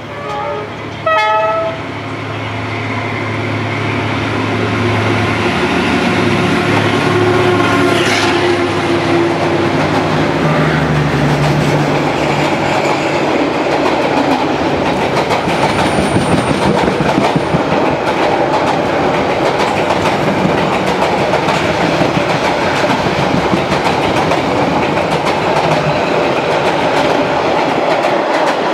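Two short train-horn toots about a second in. Then a diesel-electric locomotive's engine drones past, followed by passenger coaches rushing by close alongside, their wheels rumbling and clicking over the rail joints.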